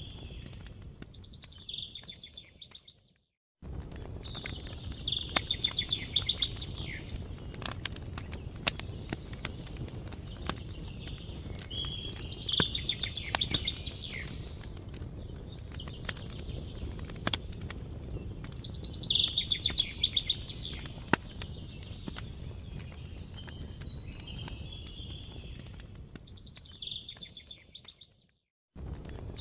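Campfire crackling with frequent sharp pops over a low, steady rumble, while a songbird repeats a short, fast trilled phrase every six seconds or so. The sound cuts out briefly to silence about three seconds in and again near the end.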